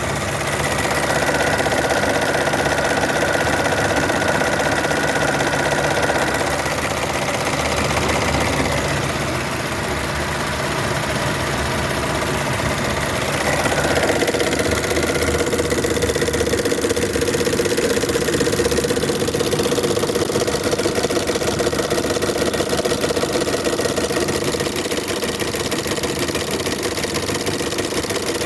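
Chevrolet Onix four-cylinder engine running, with the engine noise that is a common, easy-to-fix fault on the Onix 1.0 and 1.4. The sound changes about halfway through, where a steady whine sets in.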